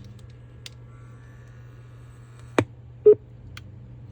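A sharp click, then about half a second later one short electronic beep from the Saregama Carvaan Mini, over a steady low electrical hum. The beep comes as the player, which had a flat battery, responds to power again.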